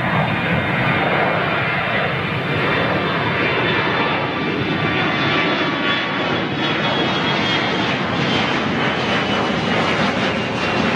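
Airliner's engines at high power during departure, a loud steady engine noise with a faint whine; its highest hiss thins out about two-thirds of the way through.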